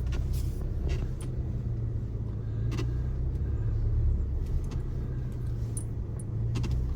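Cab interior of a 2025 Chevy Colorado ZR2 creeping over a rough trail: the turbocharged four-cylinder engine and drivetrain make a steady low rumble, with scattered clicks and rattles of things jostling in the cab.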